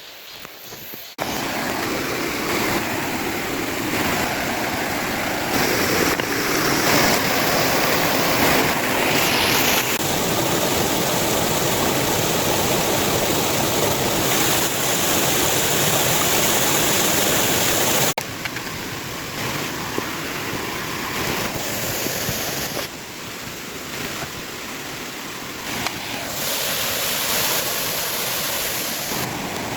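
Waterfall on a mountain stream, falling water rushing steadily. It comes in suddenly about a second in, then drops abruptly in level about 18 seconds in and again a little later.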